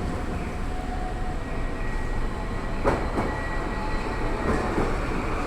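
Iyo Railway Moha 5000 tram running on departure, with a few sharp wheel knocks over rail joints about three seconds in and a faint steady whine.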